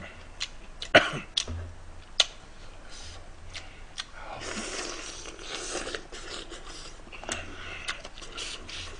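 Close-miked eating sounds: a person biting into and chewing a mouthful of food, with a stretch of wet crunching about four seconds in. Scattered small clicks run through the chewing.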